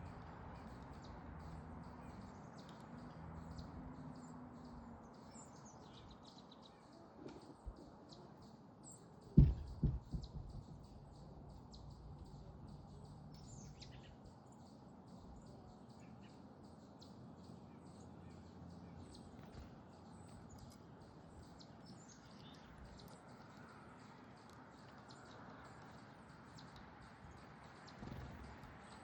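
Small backyard songbirds chirping, with many short high chirps throughout. About nine seconds in, a loud low thump is followed by a few smaller knocks.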